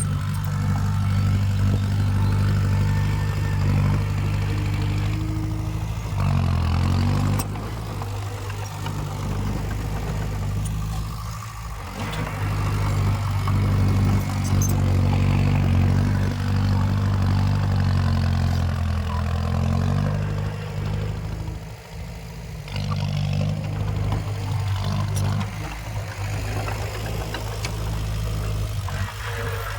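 Diesel engine of heavy earthmoving equipment running steadily, its pitch shifting down and back up about a fifth of the way in and again about two-thirds in, with a few metallic clanks.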